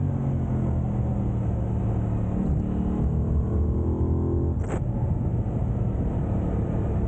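Aprilia RS 660's parallel-twin engine running through its stock exhaust while riding, its pitch climbing slowly, then holding steady after a brief click about four and a half seconds in.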